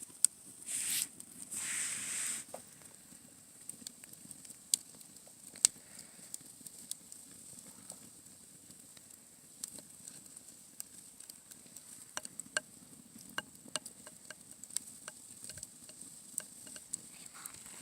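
Wood fire crackling, with irregular sharp pops and snaps over a quiet low rustle. Two brief hisses come about a second in.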